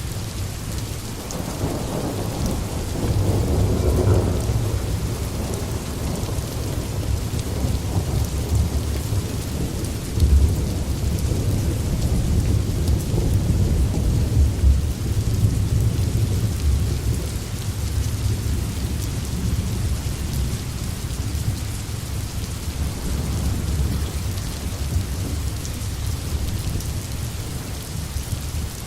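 Steady rain with low rolling rumbles of thunder underneath; the rumble swells a few seconds in and surges again around the middle.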